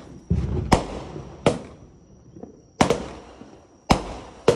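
Aerial fireworks going off: about six sharp bangs at uneven gaps, each one trailing off, the first with a low rumble after it.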